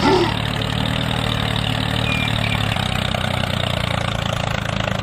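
An engine running at a steady idle with an even pulsing beat.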